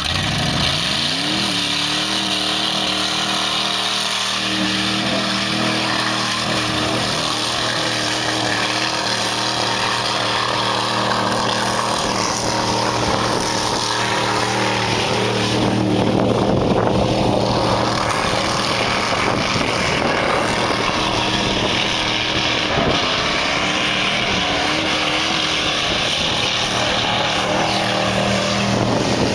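Ford F-150 pickup engine running. It revs up in the first second or so, then settles into a steady run that grows louder and rougher for a few seconds around the middle before steadying again.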